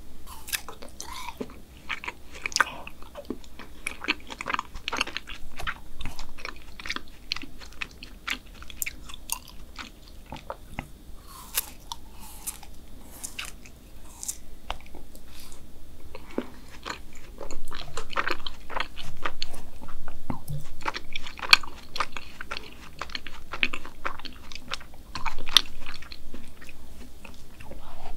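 Close-miked eating: biting into and chewing a frozen Binggrae Bibibig black sesame ice bar, with many sharp mouth clicks and bites. The bites grow louder about halfway through.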